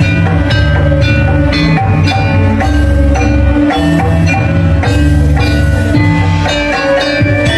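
Balinese gamelan playing: bronze metallophones ringing over drums.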